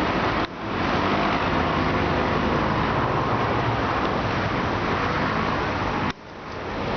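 Steady, loud roar of a landing Airbus A321 airliner's jet engines. It cuts out abruptly about half a second in and again near the end, each time swelling back up within a second.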